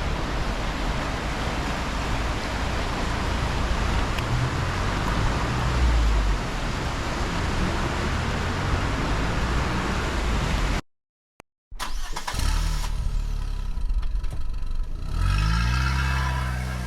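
Steady, loud rush of water pouring through the dam, with a heavy low rumble. About eleven seconds in it cuts off to silence, and then a motor-like hum comes in and rises in pitch near the end.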